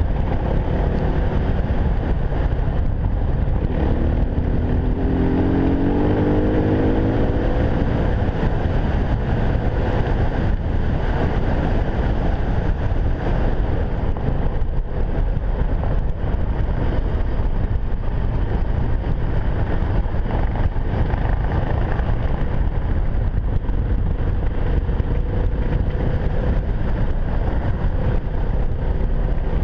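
Enduro dirt bike engine running under way, with wind buffeting the microphone. A rising whine comes through for a few seconds about four seconds in.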